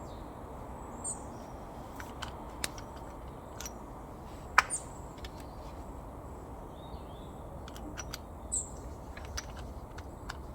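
Small birds chirping a few times over steady background noise, with scattered sharp clicks and one louder click about halfway through.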